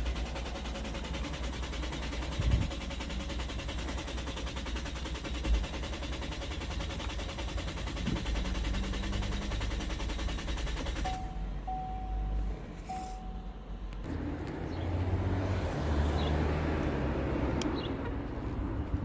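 A 2018 Chevrolet Cruze engine cranking on the starter without catching, a no-start that the uploader puts down to an intermittent fuel pump. About eleven seconds in, the cranking stops and a dash chime beeps three times, then a second long stretch of cranking follows.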